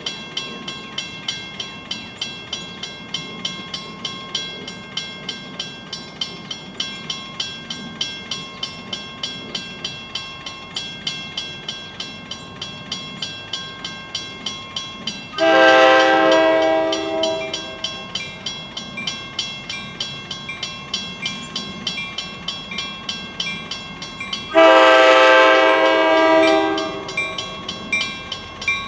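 A commuter train's air horn sounds two long blasts, one about halfway through and one near the end. Under it a railroad crossing bell rings steadily at about three strokes a second.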